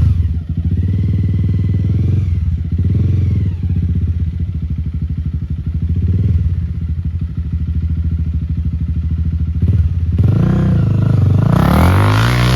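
Enduro motorcycle engine running at low revs with short throttle blips, then revving harder near the end.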